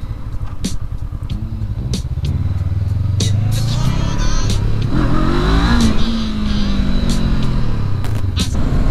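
Engine of a 2019 Honda CB500X, a parallel twin, running under way: its pitch rises over a couple of seconds as it accelerates, then eases off, with scattered sharp ticks.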